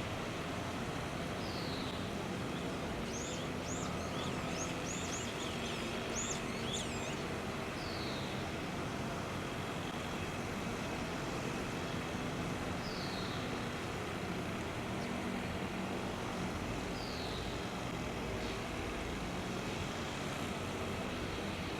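Wild birds calling over a steady low background rumble: a burst of quick high chirps between about three and seven seconds in, and a short falling call repeated every four or five seconds.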